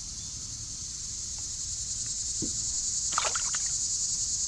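Steady, high-pitched chorus of insects droning, growing slightly louder, with a few short faint sounds about three seconds in.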